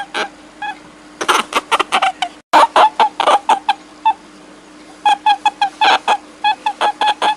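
A rapid series of short, pitched clucking calls from an animal, several a second, in irregular clusters. The sound cuts out abruptly for a moment about two and a half seconds in.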